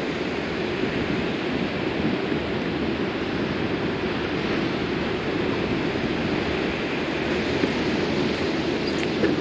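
A 2008 Ford Mustang Bullitt's 4.6-litre V8 running steadily, heard through a Pypes axle-back exhaust with the mufflers deleted, as a deep, even rumble.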